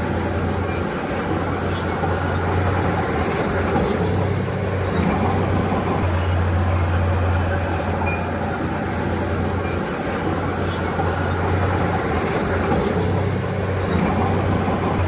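Diesel engine of heavy earthmoving machinery running steadily, its low drone easing and rising every few seconds, with faint scattered metallic clinks.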